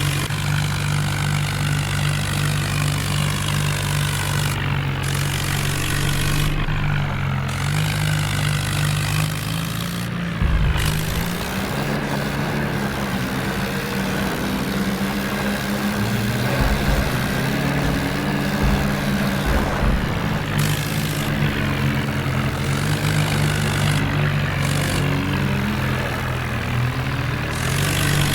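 Diesel tractor engines running hard without a break, their pitch shifting up and down a few times as the revs change.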